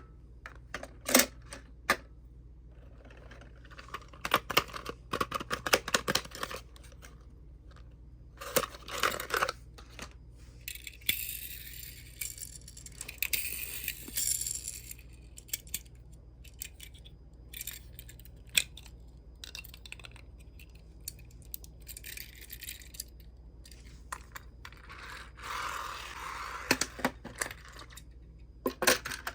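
Small die-cast toy cars and hard plastic toy parts clicking and clinking as they are handled and set down, with a stretch of crinkly rustling or tearing, like packaging, in the middle and a softer rustle near the end.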